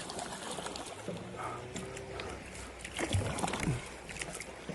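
Kayak on a river: a steady hiss of moving water with scattered knocks and splashes from the paddle and hull, the loudest a few about three seconds in.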